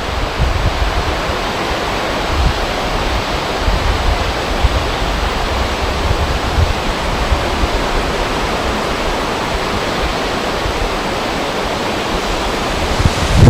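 Steady, even rushing noise of wind and flowing river water.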